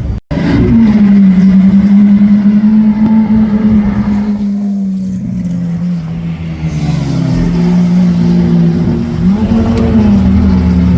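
Lamborghini Aventador's V12 engine running at low revs in a steady note that sags a little in pitch midway, then rises in a short throttle blip about nine and a half seconds in. The sound cuts out for an instant just after the start.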